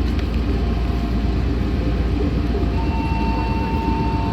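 Meitetsu 6500 series electric train running, heard from inside the car: a steady low rumble of wheels and running gear on the track. A steady high-pitched whine joins in about three seconds in.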